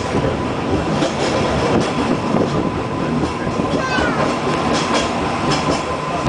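Peak Tram funicular car running downhill on its rails, heard from inside the car: a steady rumble and rattle with scattered clicks and a faint steady whine.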